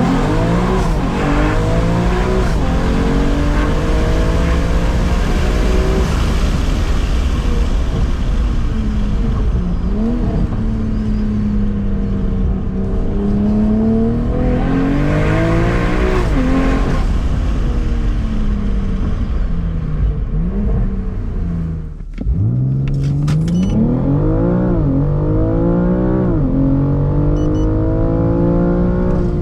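BMW M440i's B58 3.0-litre turbocharged inline-six running loud through an aftermarket Fi exhaust, its pitch rising and falling again and again under throttle. About 22 seconds in it briefly drops off, then pulls up again.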